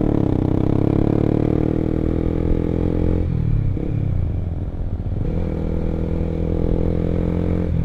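Honda CBR150R's single-cylinder engine running through an R9 aftermarket exhaust while riding at a steady pace. About three seconds in the pitch drops and wavers, then climbs back and holds steady again.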